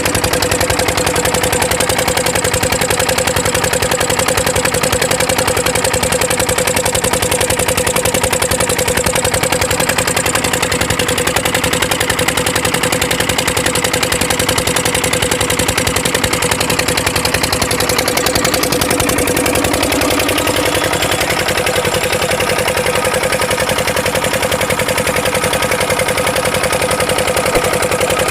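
Water-pump engine running steadily at an even speed, a continuous fast mechanical beat with a steady hum.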